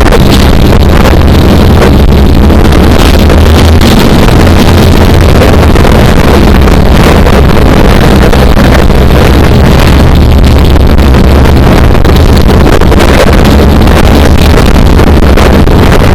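Stock car engines running during a race, a steady low drone, heavily buffeted by loud wind noise on the microphone.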